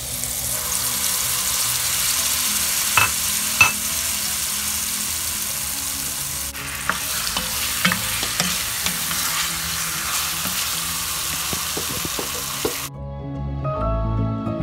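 Curry paste sizzling as it hits hot oil in an enamel pan, then chicken and vegetables frying while being stirred, with a few sharp knocks against the pan. The sizzling stops near the end and soft music comes in.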